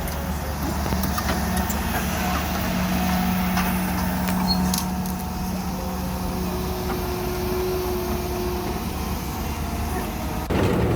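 Heavy vehicle engine running steadily, its hum growing louder near the end.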